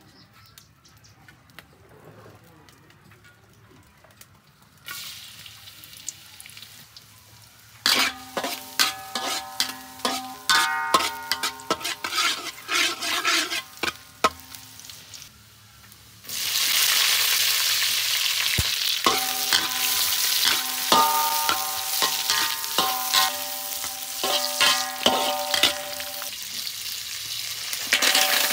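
Garlic frying in oil in a steel wok, with a metal spatula scraping and knocking against the wok, which rings briefly at each stroke. About 16 seconds in, a loud, steady sizzle starts suddenly, with more spatula strokes over it.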